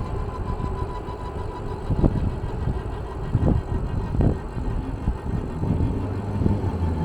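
Low, steady rumble of a running vehicle, with a few short knocks about two, three and a half and four seconds in.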